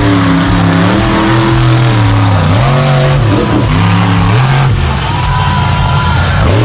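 Monster truck engine revving again and again, its pitch rising and falling, with music playing alongside.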